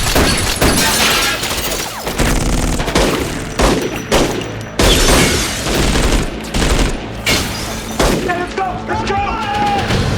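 Gunfight sound effects from an action-film soundtrack: irregular bursts of rapid gunfire and loud impacts, several every couple of seconds.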